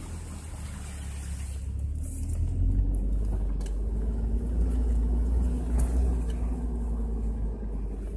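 Off-road vehicle's engine running low and steady as it drives a rough trail, pulling a little louder about two and a half seconds in, with a few light knocks from the vehicle jolting.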